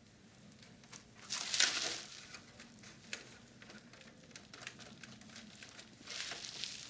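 Hands handling the opened plastic radio cassette recorder during disassembly: scattered small clicks and knocks, with a louder rustling scrape about a second and a half in and another near the end.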